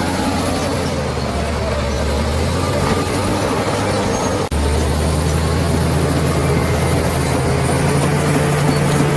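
Bulldozer's heavy diesel engine running steadily with a deep, even hum. The sound breaks off for an instant about halfway through, then carries on.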